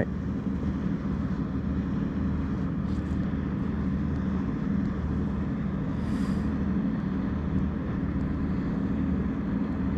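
A steady low engine drone that holds an even level throughout.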